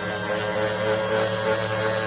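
Electric sander running steadily on a steel axe head, a constant motor hum with the sanding noise over it.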